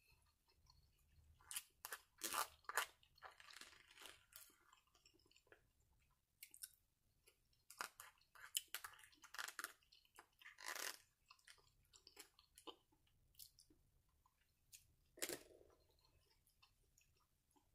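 Quiet close-up eating sounds: chewing and crunching of food with sharp mouth clicks, in short bursts separated by pauses.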